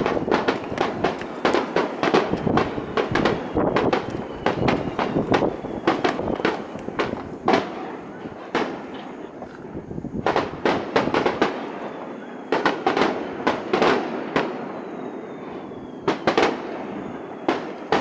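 Aerial firework shells bursting in quick succession: a dense run of booms and bangs, easing off briefly a little past the middle before starting up again.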